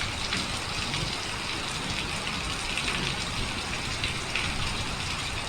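Heavy rain falling straight down in a windless downpour, a steady dense hiss of drops pattering on surfaces.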